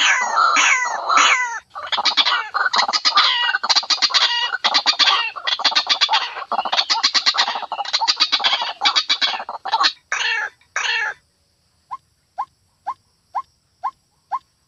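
White-breasted waterhen (ruak-ruak) calling: loud, harsh calls that slide downward, then a long, fast, stuttering chatter. About eleven seconds in the chatter stops and gives way to short single notes repeated about twice a second.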